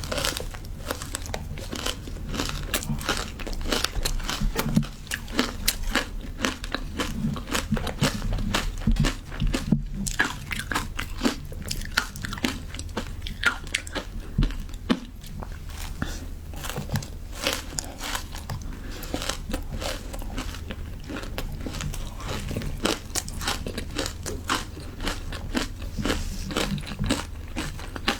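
Ice being bitten and chewed: a dense, irregular run of crisp crunches and cracks as frozen matcha ice is broken up between the teeth.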